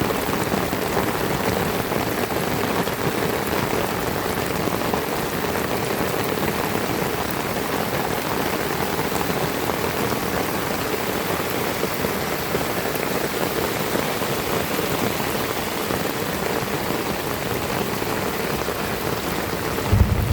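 Heavy rain falling and pattering on surfaces in a steady, even hiss. A low rumble sets in at the very end.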